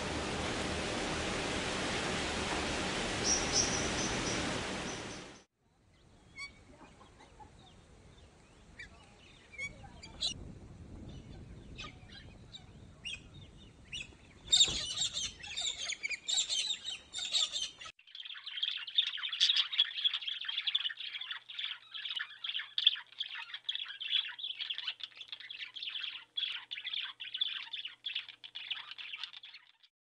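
A steady hiss cuts off abruptly about five seconds in. Sparse high bird calls follow, louder a little past the middle, then give way to dense, rapid high chirping that runs on to the end.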